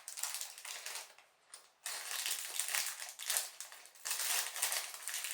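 Hands handling LEGO plastic pieces and packaging: a dense rustling clatter of small plastic clicks, with a short pause about a second in.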